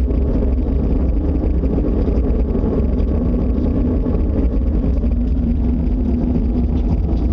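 A loud, steady, low rumbling roar of unknown origin that frightened people took for an approaching tornado. It has no breaks and a faint hum running through it.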